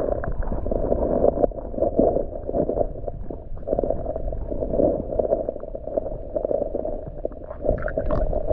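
Muffled gurgling and sloshing of creek water, in uneven surges, as a bass is released under the water.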